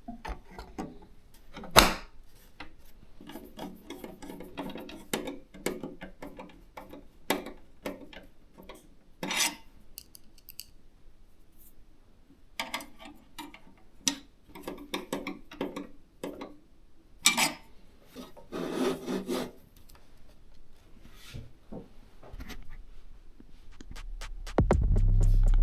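Hands handling computer parts during the graphics-card install: rubbing and scraping with scattered sharp clicks and knocks. Music begins near the end.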